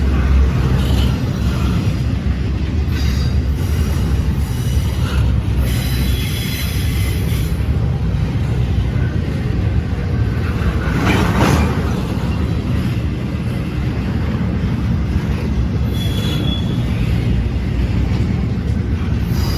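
A train rolling past: a steady rumble of wheels on the rails, with brief high-pitched wheel squeals several times and a louder swell about halfway through.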